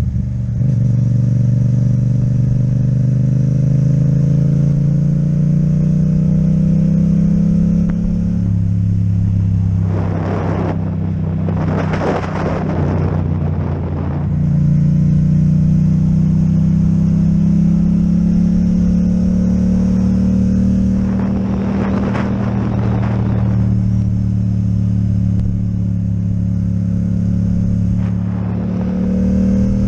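Yamaha MT-07's parallel-twin engine with an Akrapovic exhaust, running under way. Its pitch climbs slowly and drops back three times. Twice a louder rushing noise swells and fades.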